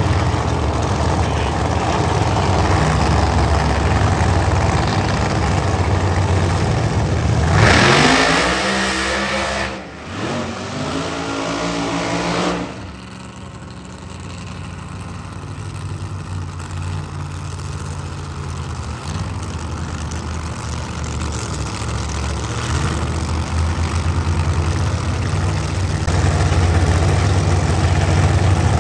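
Drag-racing car engine running with a steady low drone, revved hard about eight seconds in with a rising pitch, and again briefly after a short dip. It then drops back to a steady drone that grows louder toward the end.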